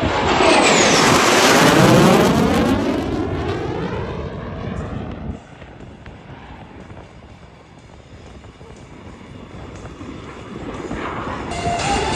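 Jet aircraft flying past, loudest in the first couple of seconds with a falling sweep in pitch as it goes by, then fading. The noise drops off sharply about five seconds in and builds again near the end.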